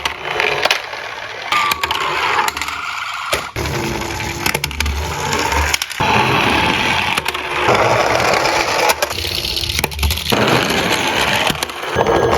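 Small toy cars rolling and clattering down a slope, with many sharp clicks and knocks.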